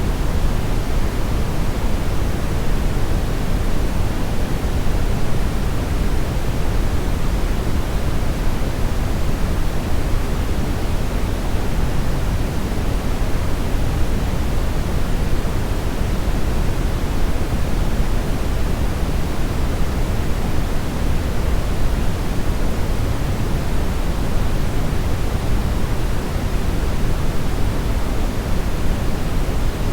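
Steady synthetic brownish noise: an even, deep rushing hiss weighted toward the bass, unchanging throughout.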